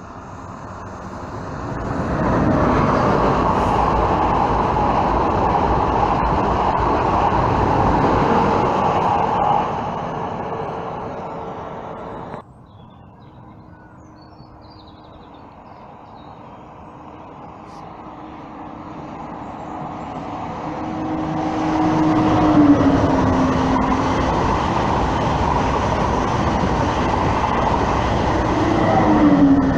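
TGV high-speed train passing beneath at speed: a rushing rail and air noise that builds, with a motor tone gliding down in pitch as each power car goes by, once about 22 seconds in and again near the end. Before that, an earlier loud pass of rushing noise fades and cuts off abruptly about twelve seconds in.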